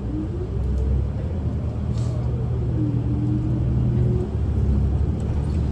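Kyoto City bus from inside the cabin: steady low engine and road rumble, with a whine that rises in pitch over the first second, falls about halfway through, then levels off.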